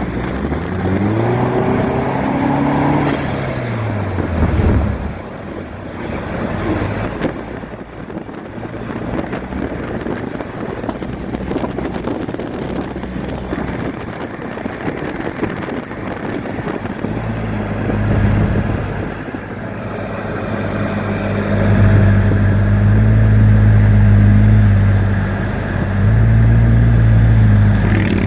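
Turbocharged Chevrolet engine of a Vanderhall three-wheeler revving up and easing off in the first few seconds. Mostly rushing wind and road noise follows while cruising. About halfway through the engine drone returns strongly and holds steady, with small rises and dips, to the end.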